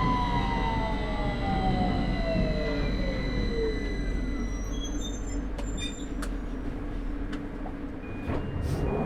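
London Underground 2009 Stock train's traction motors whining down in pitch as the train brakes into a station, over steady running rumble. A few clicks come as it comes to a stand, and near the end a short high beep repeats several times.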